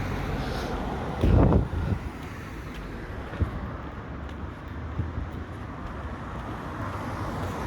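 Steady low rumble of distant road traffic with wind buffeting the microphone. A dull, low thump about a second in stands out above it.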